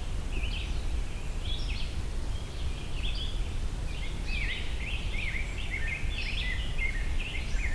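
American robin singing a run of short whistled caroling phrases with brief gaps between them, over a steady low rumble.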